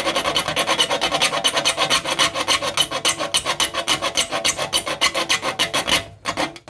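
A metal file rasping back and forth across the teeth of a hand saw in quick strokes, several a second, with a short pause near the end. A badly worn tooth is being filed deeper to bring its point back.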